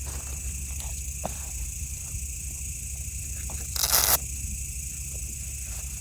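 Outdoor campfire ambience: steady high-pitched insect trilling over a low rumble, with a few small crackles from the fire. A short, loud hiss comes about four seconds in.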